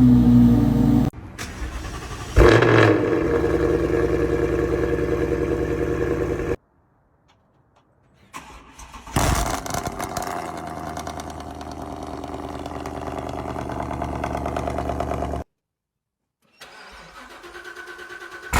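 Car engines cold-starting one after another: a short spell of starter cranking, then the engine catches with a sudden loud flare of revs and settles into a steady, fast idle. Each start is separated from the next by a second or so of silence.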